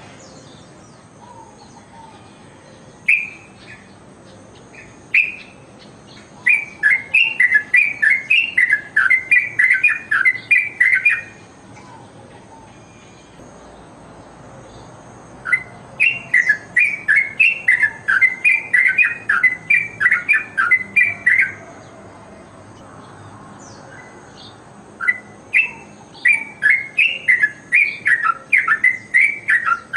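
Yellow-vented bulbul (trucukan) singing: three long runs of quick, loud, repeated chattering notes, about three a second, with a couple of single notes before the first run.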